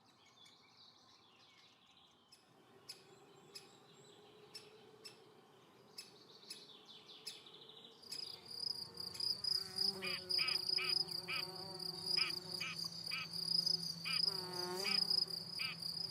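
A cricket's steady high-pitched trill starts about halfway through, with short bird calls repeating about twice a second over it. Before that there are only faint chirps and clicks.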